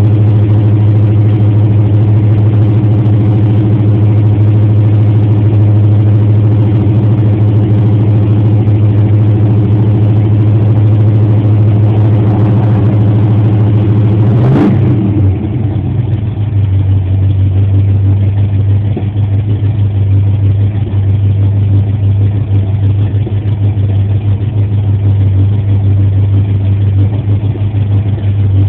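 A 1986 Oldsmobile Cutlass engine idling steadily, heard from the rear by the exhaust, a couple of minutes into warming up after a cold start. About halfway through there is a brief sharp click, and after it the idle runs a little quieter.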